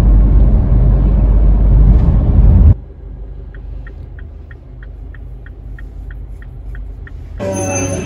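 Loud low rumble of a car driving, road and wind noise heavy on the microphone inside the cabin, cutting off suddenly about three seconds in. Then a quieter idling cabin hum with a steady quick ticking, about four ticks a second, and near the end voices and music come in.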